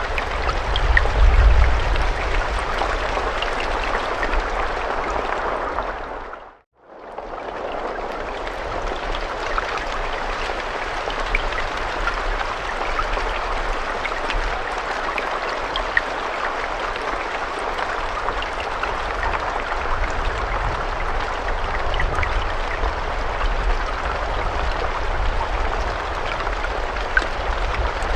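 Steady rain falling, a dense hiss with scattered drop ticks over a low rumble. It fades out to near silence about six and a half seconds in, then fades straight back up.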